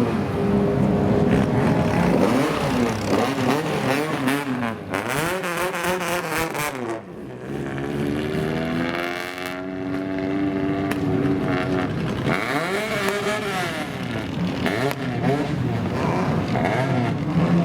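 Loud engine of a modified old car being revved again and again, the pitch rising and falling in a series of quick blips, with one slower, longer rev up and back down around the middle.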